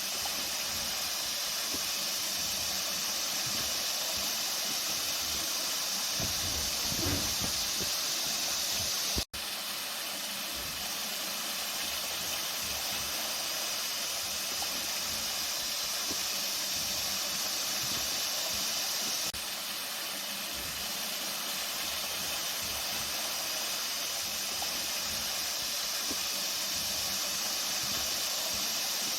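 Flowing water rushing steadily, a hissy, even sound. About nine seconds in it cuts out for an instant and resumes.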